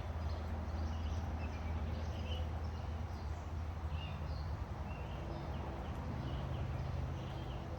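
Outdoor ambience: scattered short bird chirps over a steady low hum.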